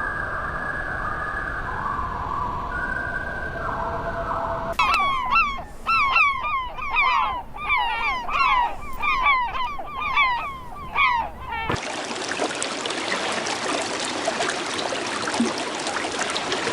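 A flock of geese honking: a rapid, overlapping series of loud honks lasting several seconds. It is preceded by a few seconds of steady held tones and cut off abruptly by an even rushing hiss.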